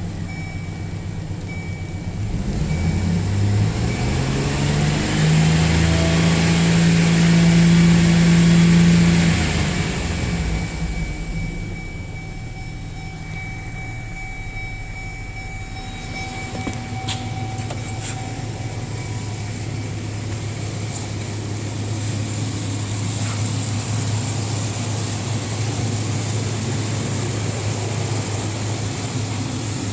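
2004 Chevrolet Silverado C1500's 4.3-litre V6 running: revved up a couple of seconds in and held high for several seconds, then dropping back to a steady idle about ten seconds in.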